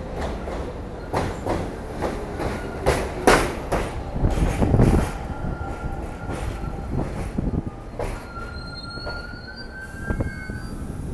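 New York City subway train running through the station: a rumble broken by clicks of wheels over rail joints, loudest a few seconds in. About eight seconds in, a high wheel squeal sets in and rises slightly in pitch.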